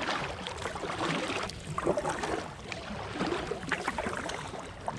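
Kayak paddle strokes on a river: water splashing and dripping off the paddle blades and lapping against the inflatable kayak's hull, coming irregularly.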